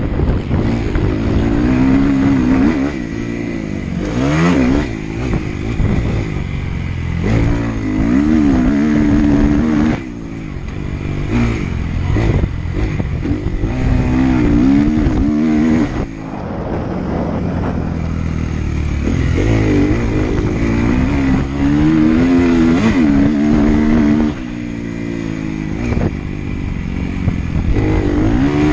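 Motocross bike engine revving hard and easing off over and over as it is ridden around a sand track, its pitch climbing and falling with the throttle. The engine note drops suddenly three times where the throttle is shut off.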